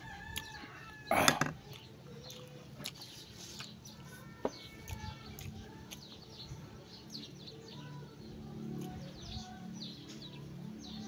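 Birds calling and chirping, many short calls scattered throughout, with one loud brief noise about a second in.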